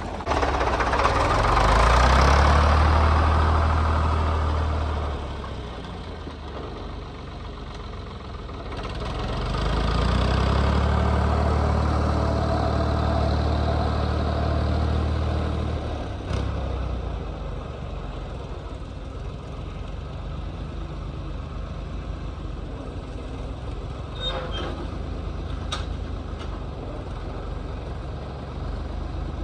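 Diesel engine of a Ford 445 industrial loader tractor running, throttled up twice for several seconds at a time as it works the loader, then settling back to a steady idle.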